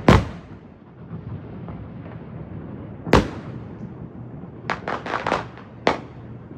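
Fireworks going off: a bang just after the start, another about three seconds in, then a quick run of several sharp cracks around five seconds in, and one more bang near the end.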